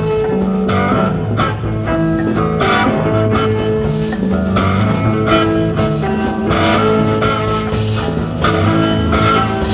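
Live psychedelic rock instrumental jam: guitar lines over bass, with drum strokes keeping time.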